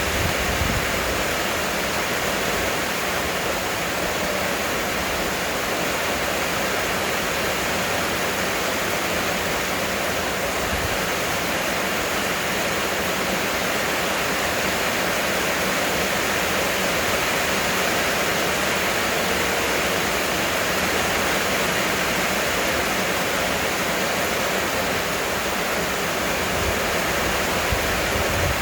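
Heavy rain pouring steadily, a dense even hiss without breaks.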